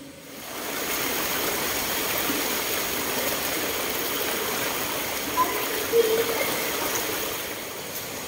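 Rushing water of a rocky river or stream, a steady wash of sound that begins abruptly about half a second in.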